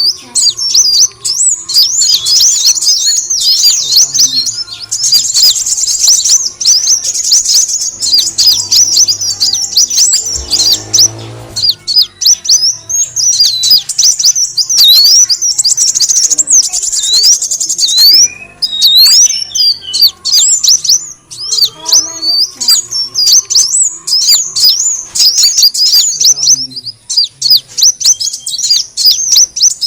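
Kolibri wulung sunbird calling: a fast, unbroken run of high, thin chirps and quick up-and-down sweeps, with brief lulls about a third and two-thirds of the way in. It is a lure call, which the tags give as a female calling a male.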